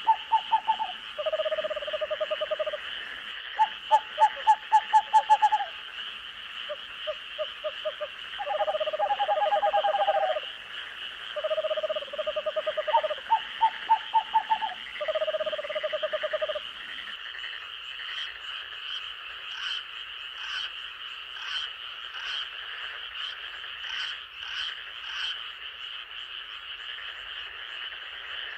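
Frogs calling at night in bouts of rapid pulsed croaks, over a steady high-pitched chorus. The croaking stops about two-thirds of the way through, leaving the steady chorus and faint high ticking calls.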